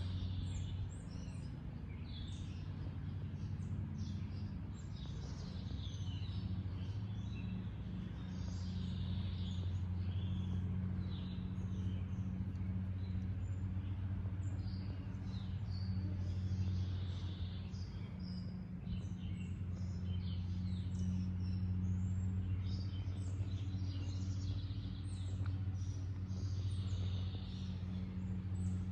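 Several birds chirping and calling in short, scattered bursts over a steady low hum.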